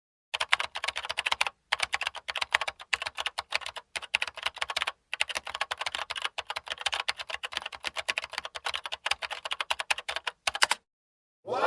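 Rapid typing on a keyboard: quick clicks, about eight to ten a second, in long runs broken by a few short silent pauses. Right at the end, a loud sweep that falls in pitch cuts in.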